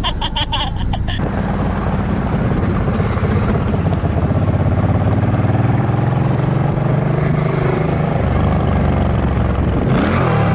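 A motorcycle's engine running steadily under way, with slight shifts in pitch. A rapidly pulsing high-pitched tone sounds for about the first second and cuts off.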